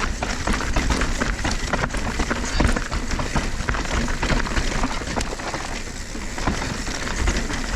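Mountain bike running fast down a dirt trail: tyres crunching over dirt and rocks, with the bike rattling in many quick knocks over a heavy low rumble.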